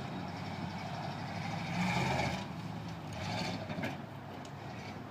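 Truck engine running with a steady low rumble. It grows louder for a moment about two seconds in, with a brief higher tone, and swells again a little after three seconds.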